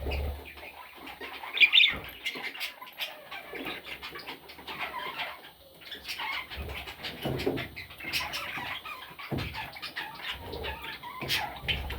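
Budgerigars chirping in many short, overlapping calls, with rustling and a few soft bumps among them.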